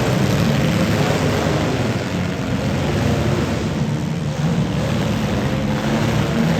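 Several demolition derby cars' engines running together in a loud, steady din.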